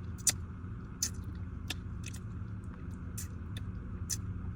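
A steady low hum with light clicks and taps at irregular intervals, about seven of them.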